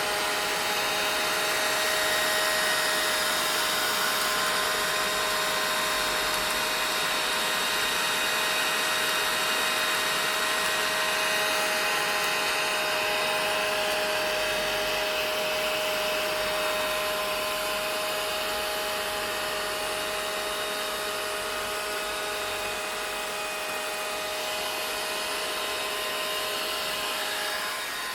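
Vacuum cleaner running steadily: a rush of air with a steady hum on top. The level eases down slightly past the middle.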